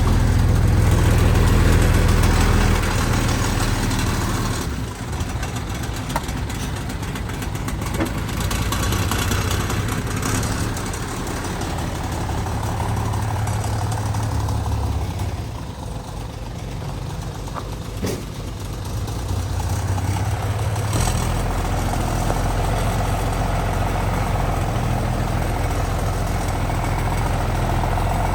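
Heavy diesel engine of earthmoving machinery running under varying load, its note easing off and picking up again a few times. A few short metallic clanks sound over it.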